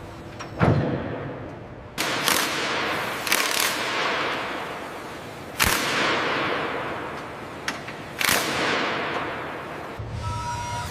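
About half a dozen loud sharp bangs, irregularly spaced a second or more apart, each trailing off over a second or two in a fading wash of noise.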